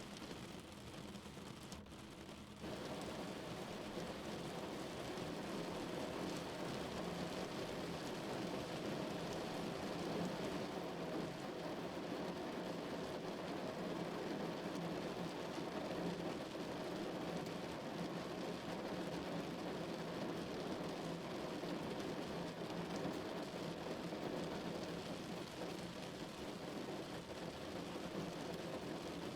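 Steady rain falling on a car's roof and windows, heard from inside the cabin; it steps up louder about two and a half seconds in.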